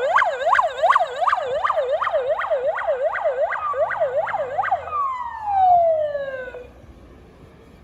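Fire-vehicle electronic siren on a fast yelp, sweeping up and down two to three times a second. About five seconds in it changes to one long falling tone that winds down and stops as the siren is switched off, leaving only faint background noise.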